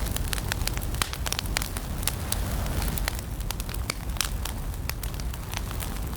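Fire burning in a fireplace: a steady low rumble and hiss with frequent, irregular sharp crackles and pops.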